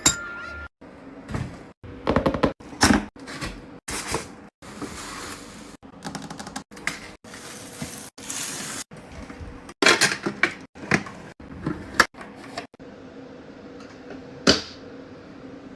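Clicks, taps and brief rustles of small objects and packaging being handled during an unboxing. The sound comes in short, abruptly cut snippets.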